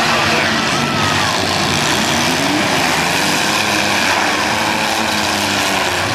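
Several demolition derby cars' engines running and revving at once: a dense, steady din with pitches rising and falling.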